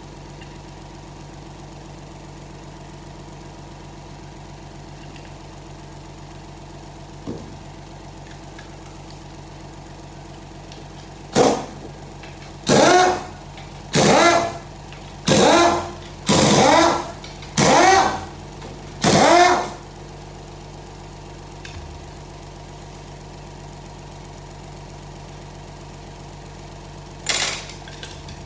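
A power tool spinning out the transmission pump's bolts in seven short bursts, a little over a second apart, then one more burst near the end. A steady mechanical hum runs underneath.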